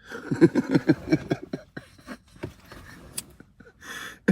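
A man laughing in a quick run of repeated bursts, easing into quieter breathy chuckles, with another burst of laughter breaking out near the end.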